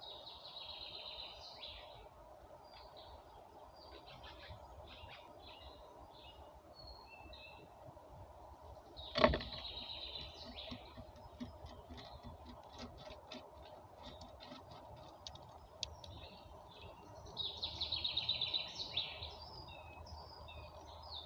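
Small songbirds singing and chirping in short bursts: at the start, again about nine seconds in, and near the end, over a steady background hum. A single sharp knock comes about nine seconds in.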